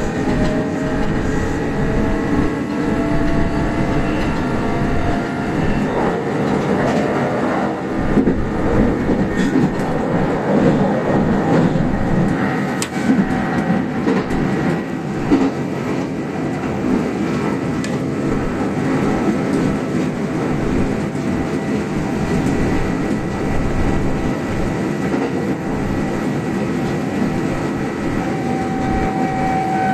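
Kintetsu express electric train running along the line, heard from inside the front car: a steady rumble of wheels on rail, with faint whining tones that drift slowly in pitch.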